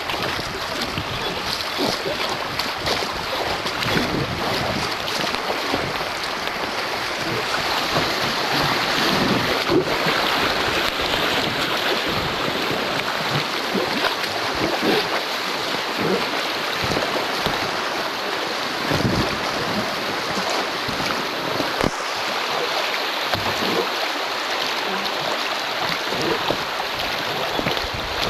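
River water rushing and splashing close to the microphone: a steady, full wash of noise with small irregular splashes.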